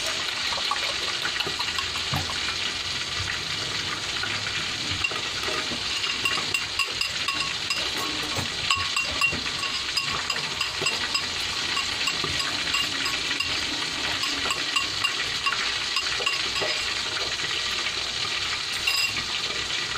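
Bitter melon sautéing in a wok, sizzling steadily with fine crackles, while a spoon scrapes and taps beaten egg out of a bowl into it.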